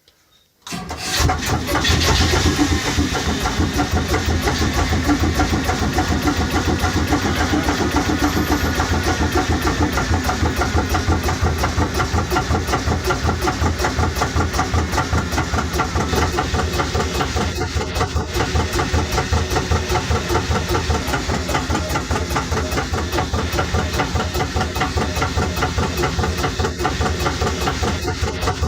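Skandia 2x50 two-cylinder, crankcase-scavenged hot bulb engine starting abruptly about a second in, then running steadily with an even, rapid beat.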